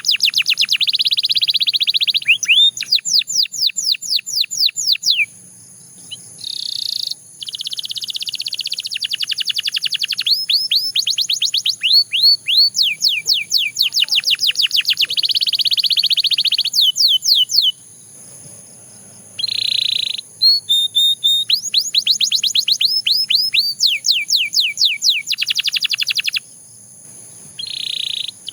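Belgian canary singing a long song of fast trills: rapid runs of high falling notes alternate with denser, buzzier rolls. The song breaks off briefly about a fifth of the way in, again about two-thirds through, and near the end.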